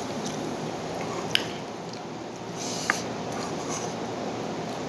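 Close-up chewing and mouth sounds of someone eating with bare hands, fingers squishing rice and noodles against a plate, with two or three small clicks.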